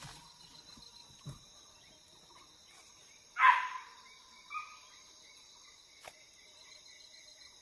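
Steady high buzzing of forest insects, crickets and cicadas. A single loud, short animal call comes about three and a half seconds in, sweeping down into a brief held tone, with a fainter call a second later.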